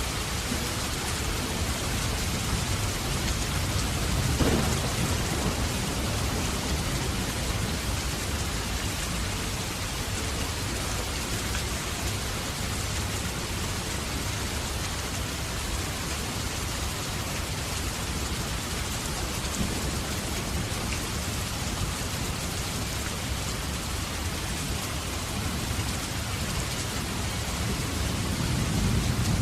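Heavy rain falling steadily, with a low thunder rumble about four seconds in and another building near the end.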